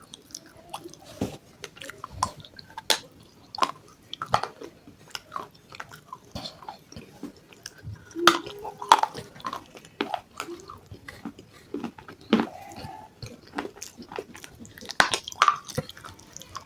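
Close-miked chewing and biting, with irregular crisp crunches and wet mouth sounds.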